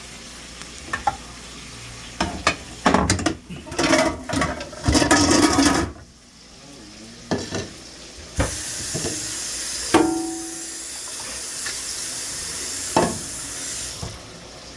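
Food frying in a pan, stirred with a utensil that scrapes and knocks against the pan. About halfway through, a steady sizzle sets in, with a ringing metal clink and a later knock.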